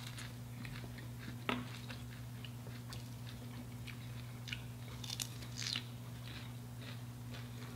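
Close-miked chewing and crunching of a fried, battered shrimp, with scattered crisp crunches, a clearer one about 1.5 seconds in. A steady low hum runs underneath.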